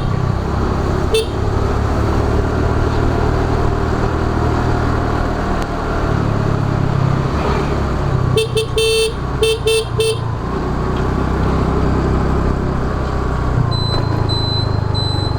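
Road traffic heard from a moving scooter: a steady low engine drone, with a vehicle horn honked briefly about a second in and again in several short toots around eight to ten seconds in. Near the end a high, rapid beeping starts.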